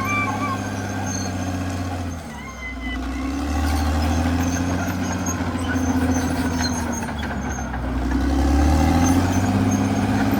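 CAT D6R XL bulldozer's diesel engine running steadily. About two seconds in, its note drops lower and stays down, then rises back near the end.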